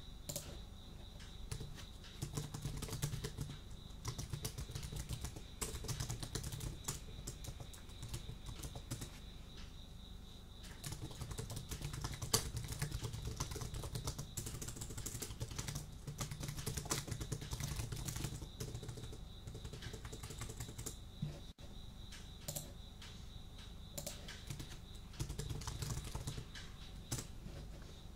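Typing on a computer keyboard: quick, irregular runs of key clicks with short pauses, and a steady high cricket trill behind them.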